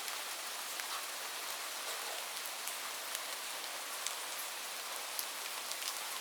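Light rain falling steadily, a soft even hiss with many small drops pattering on a surface.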